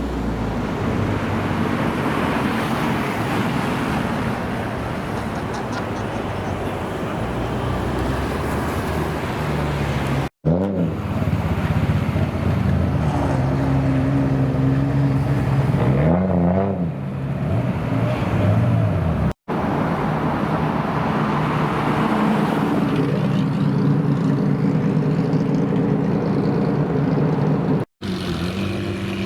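Car engines running at idle in three or four separate clips, each cut off abruptly; in the middle clip an engine revs up and drops back.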